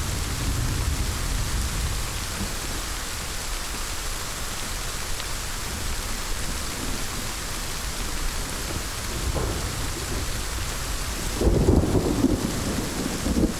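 Steady heavy rain with thunder rumbling low underneath. A louder roll of thunder swells near the end.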